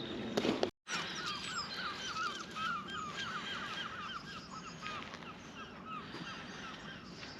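A flock of geese calling: many short, overlapping honking calls, thickest in the first few seconds and thinning toward the end. The sound cuts out completely for a moment just under a second in.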